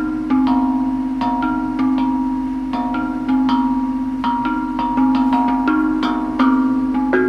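A tuned percussion instrument struck with sticks, played as a melodic pattern: low notes ring on for about a second beneath quicker, higher strikes, the notes overlapping.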